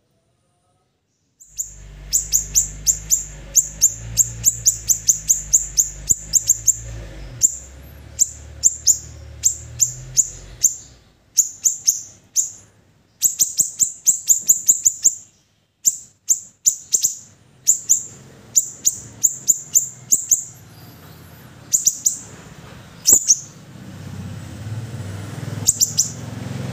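Siri-siri bird calling in fast runs of short, sharp, high-pitched chirps, several a second, with brief pauses between runs, over a low hum. The call starts about a second and a half in, after a silent moment.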